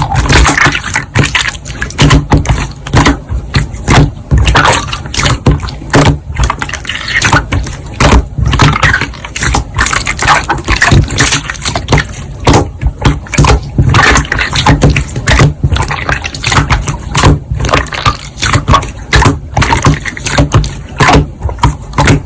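Slime being squeezed and kneaded by hand, a dense, irregular run of wet pops, clicks and squelches.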